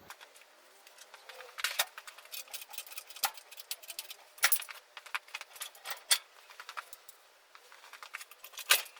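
Metallic clinking and rattling from the engine hoist and its lifting chain and leveler as the engine is raised: a run of light clicks with five louder clinks spaced about a second and a half apart.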